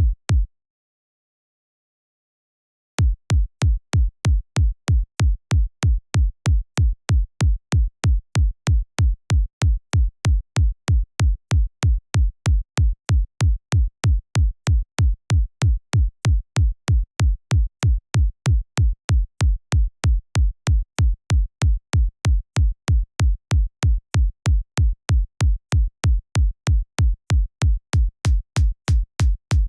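Synthesized electronic kick drum, made in the Kick 2 plugin, repeating in a steady four-on-the-floor loop at about two beats a second: each hit is a short, deep thud with a click on top. It breaks off right at the start and comes back about three seconds in.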